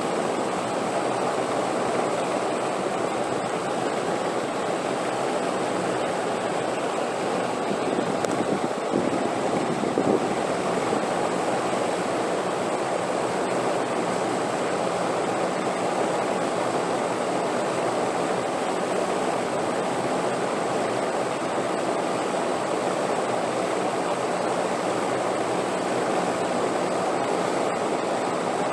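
Steady wind noise, a continuous rushing sound that swells slightly about a third of the way in.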